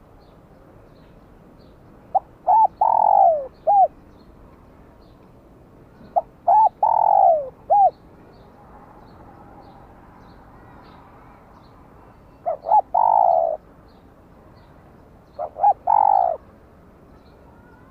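Spotted dove cooing: four calls, each made of a few short coos, a long falling coo and, in the first two calls, a short closing coo.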